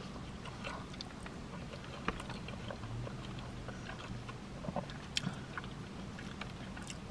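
Close-up chewing of a mouthful of chili cheese fries: soft wet mouth clicks and smacks over a steady low hum, with a few sharper clicks about five seconds in.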